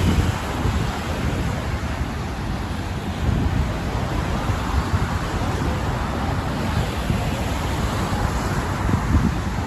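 Wind buffeting the microphone in uneven low gusts over a steady hiss of road traffic.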